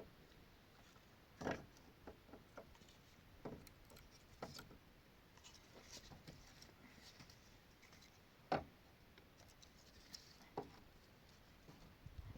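Faint, scattered light knocks and clicks, about half a dozen spread over several seconds, with the strongest near 1.5 s and 8.5 s in, over quiet room tone.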